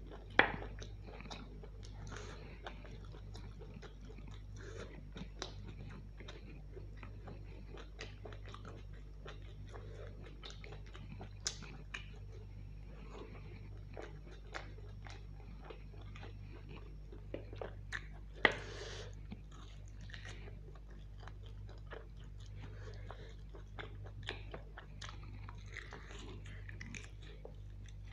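Close-miked eating: mutton curry with luchi being bitten and chewed, meat gnawed off mutton bones, many short clicks. Two louder sharp sounds stand out, one about half a second in and one around eighteen seconds in, over a steady low hum.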